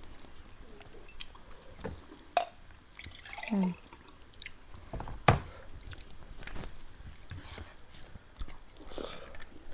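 Close-miked wet eating sounds, mouth clicks and lip smacks from chewing spicy pork curry with rice. Sharp smacks stand out about two and a half and five seconds in, and there is a short low murmur about three and a half seconds in.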